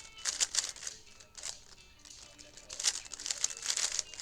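3x3 speedcube being turned quickly: clusters of rapid plastic clicking and rattling as the layers turn, with a short lull about halfway through.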